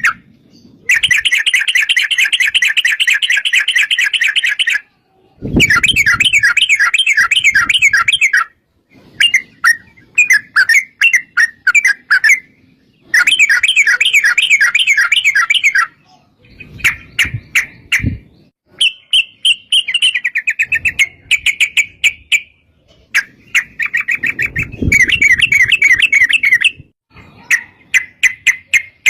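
Yellow-vented bulbuls (trucuk) singing fast, chattering trilled phrases in runs of one to four seconds separated by short pauses.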